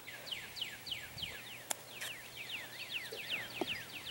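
A bird calling a long, fast series of short down-slurred notes, about four to five a second, with a sharp click about halfway through.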